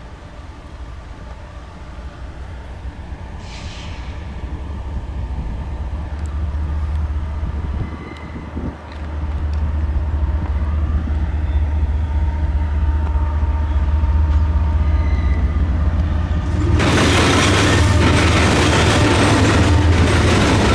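Diesel freight locomotives approaching with a deep engine drone that grows steadily louder. About seventeen seconds in, a loud rush of wheel and rail noise sets in as the train reaches and passes close by.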